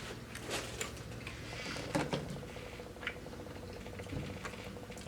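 Chewing crispy fried chicken close to the microphone: scattered small crunches and wet mouth clicks at uneven times.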